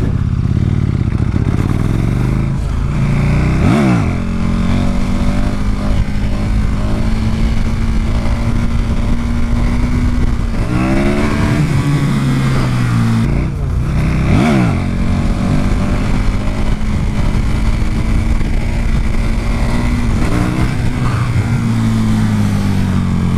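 KTM 1290 Super Duke R's V-twin engine running under way, its revs rising and falling several times as the throttle is worked, with wind noise on the helmet microphone.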